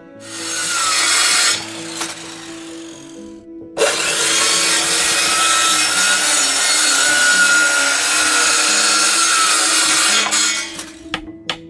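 Power tool running in two spells, a short one of about a second near the start and a longer one of about six seconds from about four seconds in, with soft background music underneath.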